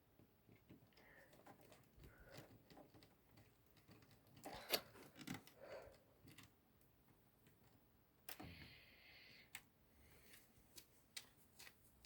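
Faint scattered clicks and taps of small parts and tools being handled during console reassembly, with one sharper click a little under five seconds in and a brief rustle or scrape about eight seconds in.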